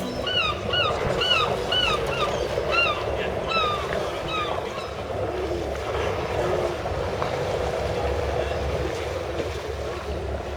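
Boat engine running over the wash of the sea, a steady low rumble with noise. In the first four seconds it is joined by about ten short, arched, high calls.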